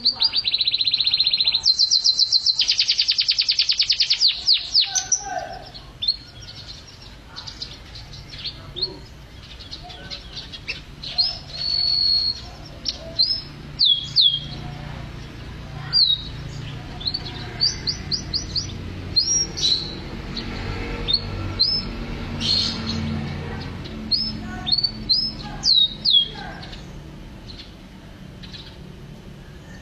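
Domestic canary singing: a loud, very fast trill for the first five seconds or so, then scattered short chirps and whistled notes that slide downward.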